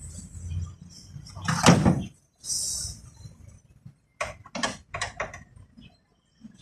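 Car door being worked on: a heavy thump a little under two seconds in, a short hiss, then four sharp clicks in quick succession.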